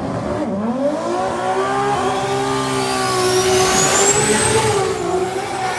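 Drag car engine at full throttle down the strip: its pitch climbs and then holds high, with a thin whine rising above it. The sound fades as the car pulls away near the end.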